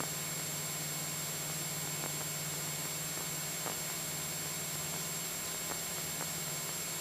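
Steady in-flight cabin noise of a Cessna 172SP in cruise: the low, even drone of its four-cylinder Lycoming IO-360 engine and propeller under a constant hiss, with a few faint clicks.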